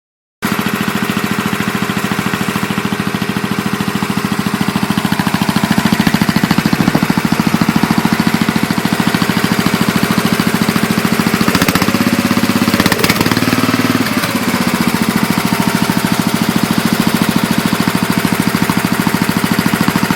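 1979 Roper tractor engine running steadily through a homemade muffler, with a fast, even exhaust pulse. About two-thirds of the way through, the note shifts briefly, then settles back.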